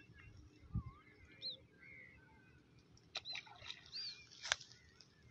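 Faint bird chirps: several short, curving whistled notes. A soft low thump comes just under a second in, and a few sharp clicks about three to four and a half seconds in, the last one the loudest.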